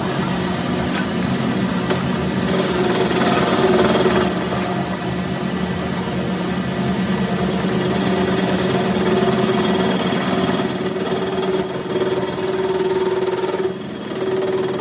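A motor or engine running steadily, with a constant hum and a faint high whine, dipping briefly near the end.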